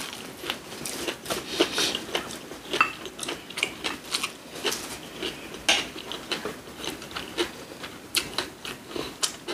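Close-up eating sounds: people chewing, with many irregular short sharp clicks.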